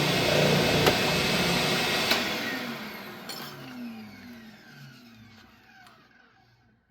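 Oscillating sander running steadily, then switched off about two seconds in; the motor winds down with a falling pitch and fades away.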